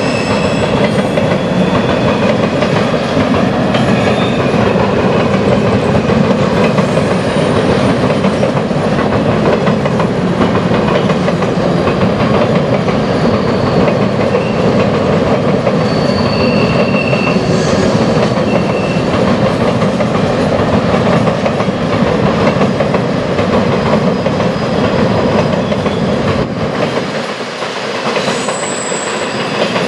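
Freight train tank cars rolling steadily across a steel truss bridge: a continuous loud rumble of wheels on rail, with a few brief faint high-pitched wheel squeals.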